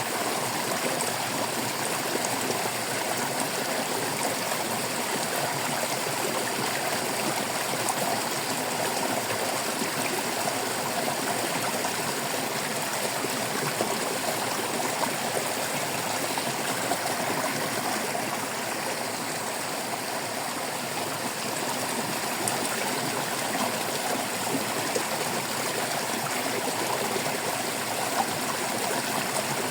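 Water flowing and babbling steadily over stones in a stream, an even continuous rushing with small gurgles.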